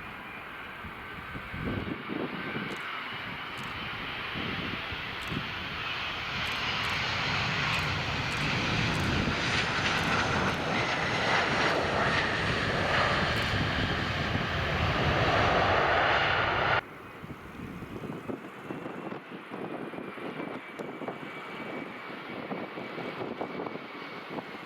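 Aircraft engines growing steadily louder as an airliner approaches, then cutting off abruptly about two-thirds of the way through. Afterwards, gusty wind buffets the microphone.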